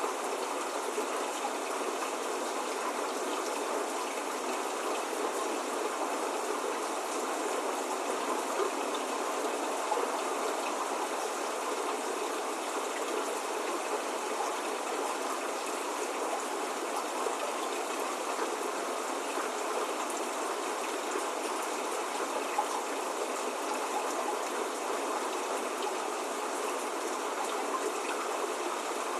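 Steady spring rain falling: an even, unbroken hiss of many drops, with the odd slightly louder drop.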